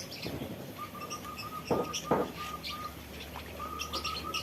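Small cage birds chirping, with many short high chirps and, twice, a quick run of repeated notes held at one pitch. About two seconds in there are two sharp knocks, half a second apart.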